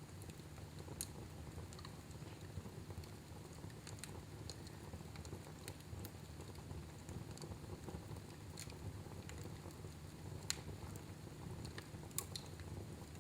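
Fire burning in a fireplace, crackling: scattered sharp pops at irregular intervals over a steady low rumble, the loudest pop about three-quarters of the way through.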